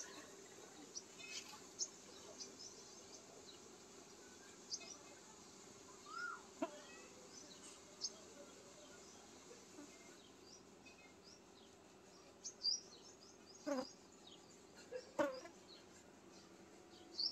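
Small birds chirping: scattered short high chirps, with a few louder calls in the last few seconds, over a faint steady hum.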